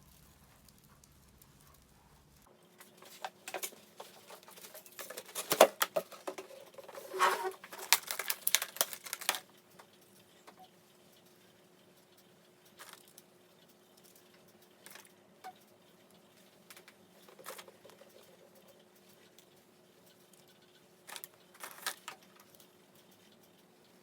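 Light rustling and clicking, as of small objects being handled: a dense run for several seconds, then a few scattered clicks.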